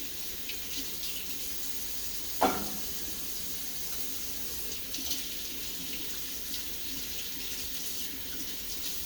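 Kitchen tap running steadily into the sink, with one sharp clank about two and a half seconds in, the loudest moment.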